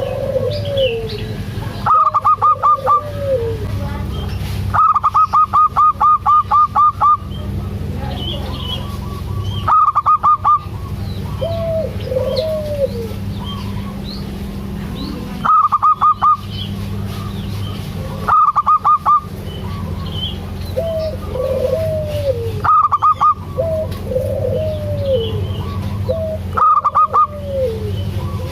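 Zebra dove (perkutut) calling: loud runs of rapid staccato notes about a second long, one near the start running about two seconds, come every two to three seconds. Softer arching coos fall between them.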